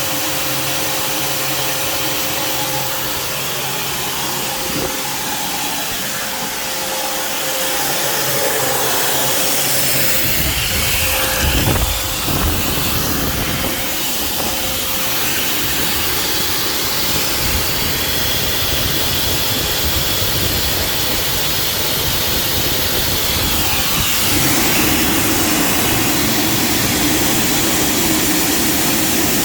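Alfa Romeo Spider engine running under a steady hiss. A deeper rumble comes in about ten seconds in, and the sound changes again near the end.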